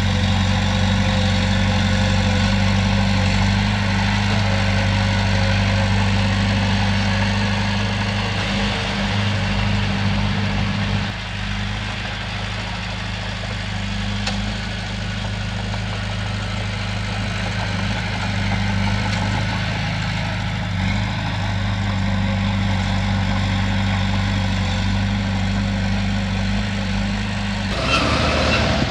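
Heavy diesel engine of a Komatsu bulldozer running at a steady speed, with a low, even drone. The sound changes abruptly about a second before the end.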